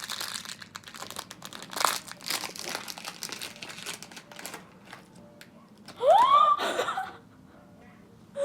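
Packaging wrapper of a Sonny Angel blind box crinkling as it is torn open, dense crackling for about four and a half seconds. About six seconds in, a short high exclamation of delight, its pitch rising then falling.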